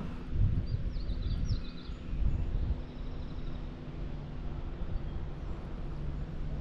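Wind rumbling on the microphone, with a short run of high bird chirps about a second in.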